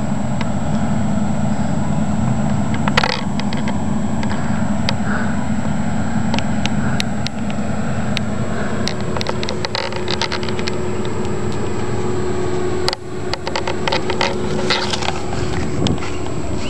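A motor vehicle's engine idling steadily, with scattered light clicks over it.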